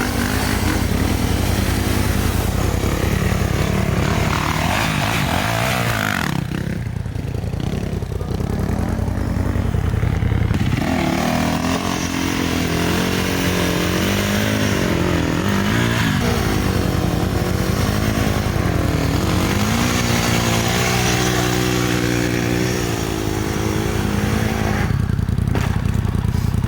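Dirt bike engines running and revving, the pitch rising and falling again and again.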